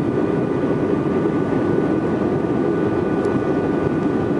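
Jet airliner cabin noise: a steady, dense rush of engines and airflow with a few faint steady whining tones above it.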